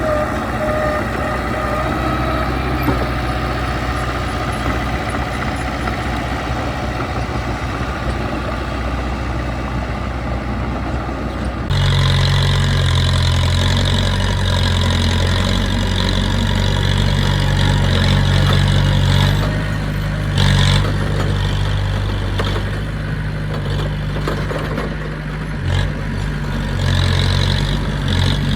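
Heavy machinery's diesel engine running steadily. About twelve seconds in the sound shifts suddenly to a louder, deeper engine note, with a couple of brief louder surges later.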